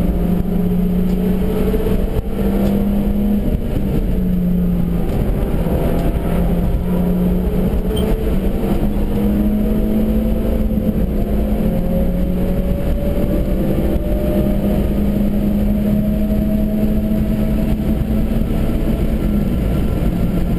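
Stage 1 tuned Suzuki Swift's engine heard from inside the cabin, running hard under road and wind noise. Its note shifts through the first seconds, with a brief dip about two seconds in, then climbs steadily through the middle as the car accelerates.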